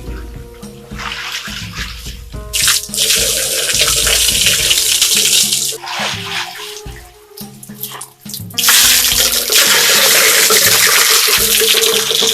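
Water pouring or gushing in two spells of a few seconds each, over background music with steady low notes.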